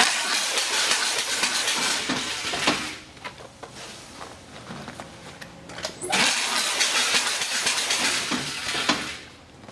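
MPT-21 stretch film bander running two banding cycles: each a loud rushing hiss with clicks lasting about three seconds, the second starting about six seconds in.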